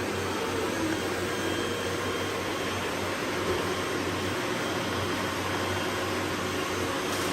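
Robot vacuum cleaners running, a steady whir of motors and brushes with a low hum underneath.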